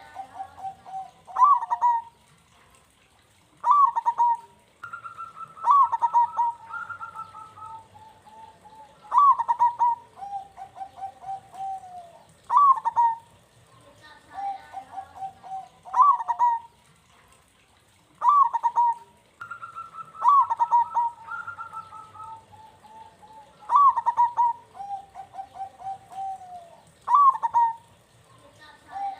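Zebra dove (perkutut) cooing in repeated phrases about every three seconds. Each phrase is a strong note sliding downward, followed by a quick run of lower, clipped notes.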